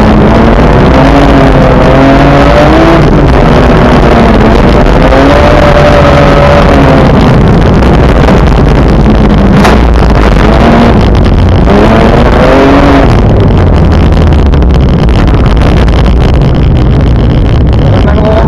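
Car engine pulling hard, its pitch rising and falling several times as the revs climb and drop, over steady tyre and road noise; loud throughout, with a single sharp knock about ten seconds in.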